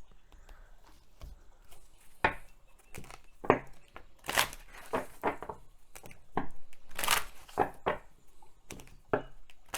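Tarot cards being handled and laid out: about ten irregular card snaps and rustles.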